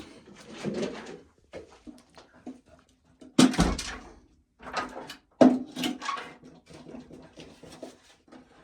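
Irregular knocks, thumps and scrapes of wood being handled as a shed is closed back up. The loudest thump comes about three and a half seconds in and another about five and a half seconds in.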